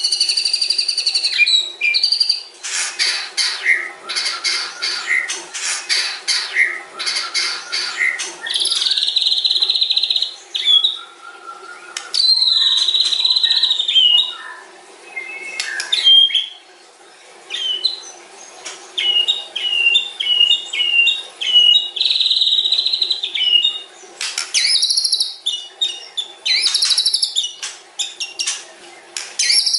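White-rumped shama singing a long, varied song: a fast rattling chatter, long warbling whistles and a run of short repeated notes.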